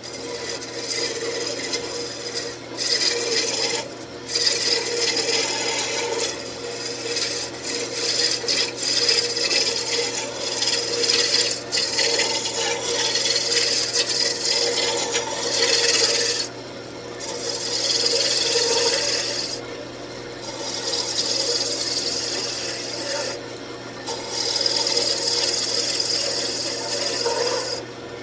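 Roughing gouge cutting a spinning wooden table leg on a wood lathe: a steady shearing hiss in long passes broken by brief pauses, over the lathe motor's low, steady hum.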